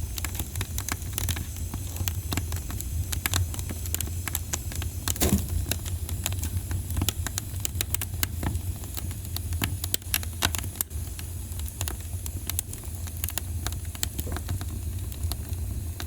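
Wood fire crackling in a fireplace: frequent sharp snaps and pops over a steady low rumble, with one louder pop about five seconds in.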